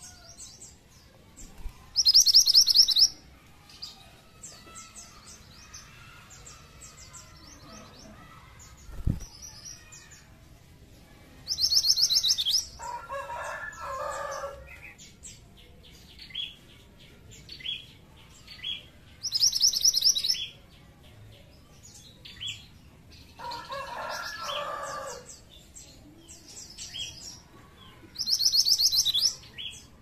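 Minivet (mantenan) calling: four loud, quick, high trills come about every eight seconds, with short high chips between them. Twice, a lower chattering call follows a trill. A single dull thump sounds about nine seconds in.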